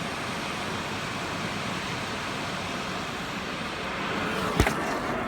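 High-pressure water jets of a touchless car wash spraying the car, heard from inside the cabin as a steady hiss, with one sharp click near the end.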